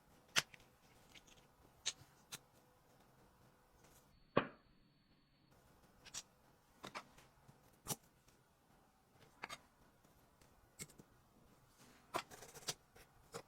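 A series of faint, sharp clicks and taps, irregularly spaced about a second apart, with one louder knock about four seconds in.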